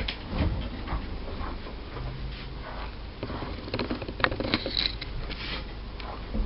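Soft brush strokes through a soft-coated wheaten terrier puppy's coat, with scattered light taps and scuffs as the puppy shifts on the grooming table.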